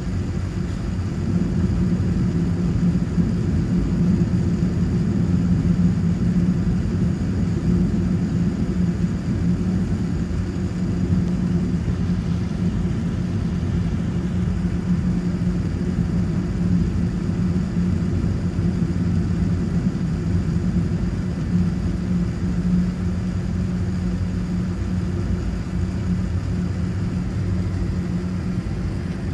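Steady low engine rumble with a droning hum.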